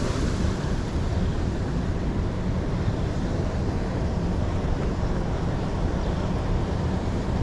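Steady rushing noise of a mountain stream's flowing water, with wind buffeting the microphone.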